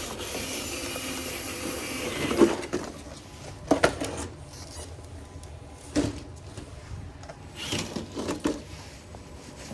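Traxxas TRX-4 RC rock crawler's electric drivetrain whirring with its tyres scrabbling on dirt and rock for about two and a half seconds, then several separate knocks and scrapes as it works over the rocks.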